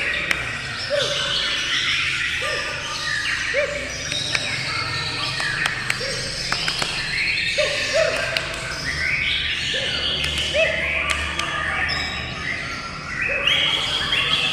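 Many songbirds singing and chirping at once in a dense, overlapping chorus. A short lower call repeats about once a second throughout.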